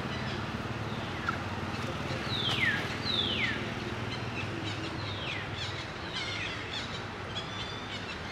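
A bird calling outdoors: two clear whistles a little over two seconds in, each sliding steeply down in pitch over about half a second, then fainter, similar falling calls and a quick trill later on, over a steady low background hum.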